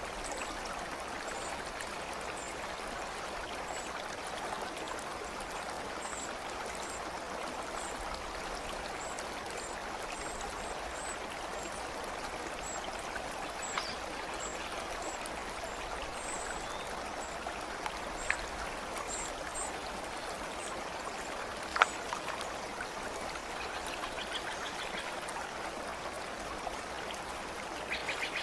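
Steady babbling of a flowing stream, with faint short high chirps above it and a few sharp drip-like clicks, the loudest about three-quarters of the way through.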